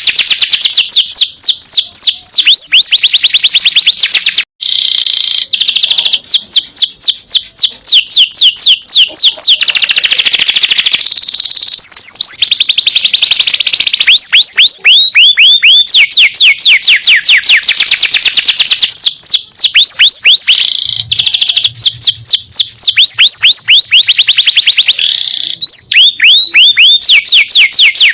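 Domestic canary singing a loud, continuous song of fast trills, each a run of rapidly repeated falling whistled notes, changing from one trill to the next every second or two, with a few rolling, buzzier passages in between.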